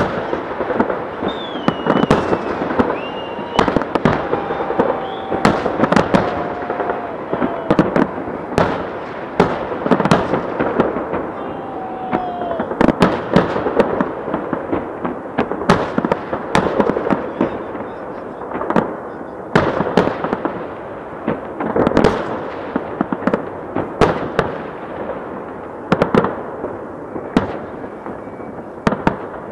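Aerial fireworks shells bursting one after another at irregular intervals, sharp bangs over continuous crackling. The bangs grow sparser and quieter near the end.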